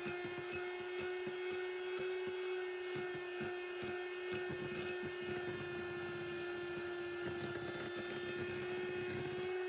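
Electric mixer running steadily at high speed, its beaters whipping meringue in a bowl: a constant motor whine whose pitch creeps slightly up, over a fine rattle of the beaters.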